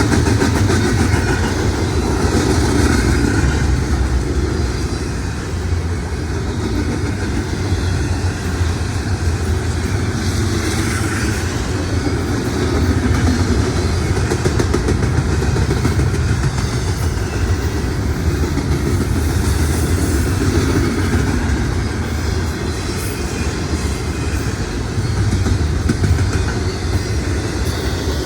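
Intermodal freight train rolling past, its wheels running steadily on the rails.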